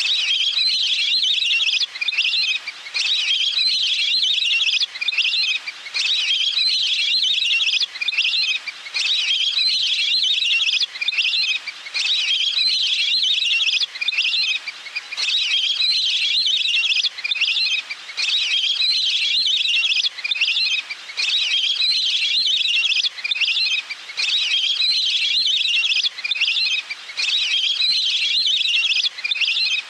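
Recorded calls of a waterbird (Thai nok pet nam, a duck or teal) played in a loop as a lure to draw the birds in. Dense high-pitched calling comes in phrases of two to three seconds, separated by short breaks.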